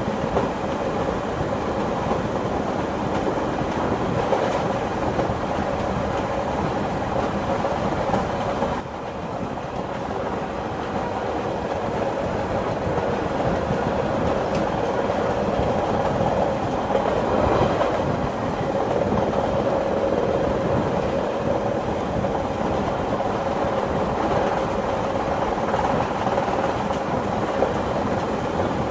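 Train running on the rails, its wheels clacking over the rail joints above a steady rumble. The sound dips briefly about nine seconds in.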